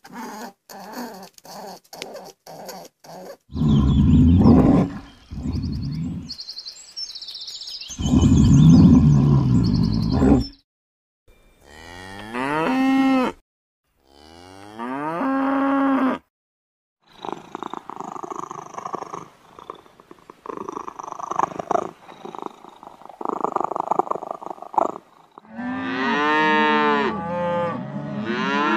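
Cattle mooing: a series of separate moos with pitch that slides up and down, several overlapping near the end. Two loud, deep calls come in the first half, about four and eight seconds in.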